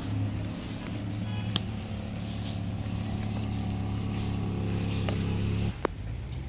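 A motor vehicle engine idling, a steady low hum that cuts off suddenly about five and a half seconds in, with a sharp click shortly after.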